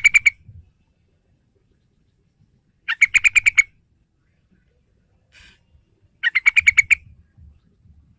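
Sooty-headed bulbul (trucukan) calling in three quick bursts of rapid repeated notes, each under a second long and about three seconds apart. A faint short note falls between the last two.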